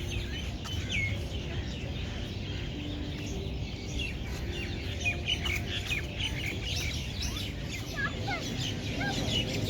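A chorus of small birds chirping and twittering, many short calls overlapping and getting busier toward the end, over a steady low rumble.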